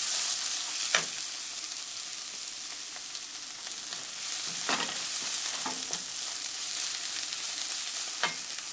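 Sliced onions, ginger, garlic and curry leaves sizzling in hot oil in a pan, stirred with a wooden spatula that clicks against the pan a few times.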